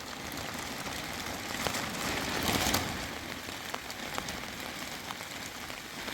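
Steady heavy rain falling, an even hiss with occasional sharp ticks of drops.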